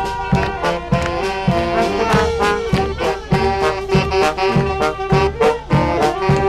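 Brass band music with a steady beat, horns holding long notes over a drum hit about twice a second.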